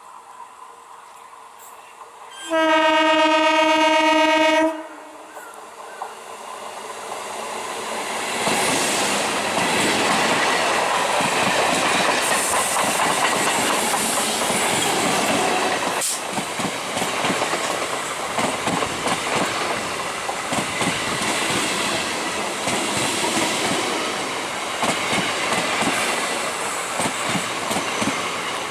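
Electric multiple unit (EMU) train sounding its horn in one steady note of about two seconds, then growing louder as it approaches and running past close by, its wheels clattering over the rail joints as the coaches go by.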